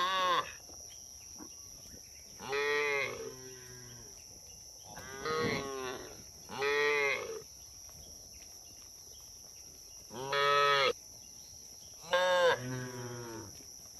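Cattle mooing repeatedly, about six separate calls a second or two apart, some longer and lower than others.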